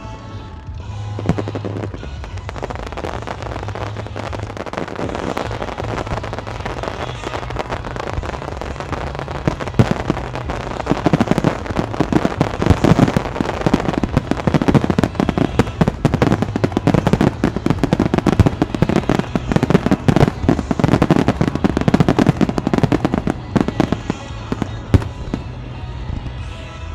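Fireworks shells bursting in quick succession with crackling, over background music. The bursts grow denser and louder about ten seconds in.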